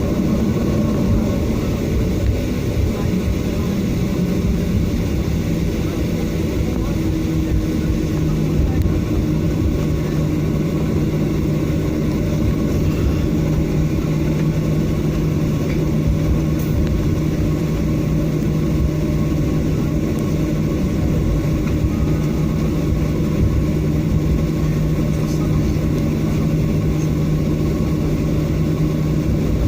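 Cabin noise of a Boeing 737-800 taxiing after landing: a steady low rumble from its CFM56 engines at idle and the rolling airframe, with a steady hum that grows stronger about six seconds in.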